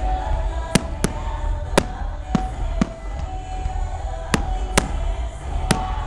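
Fireworks bursting: about eight sharp bangs at uneven intervals, over music with held tones and a low rumble.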